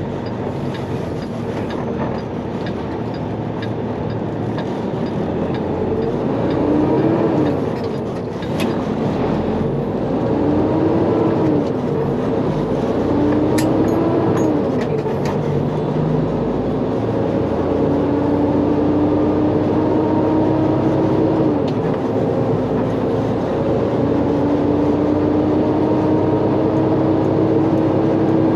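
Semi-truck diesel engine heard from inside the cab, pulling up through the gears: its pitch rises and drops back about three times, then holds a steady drone as the truck cruises.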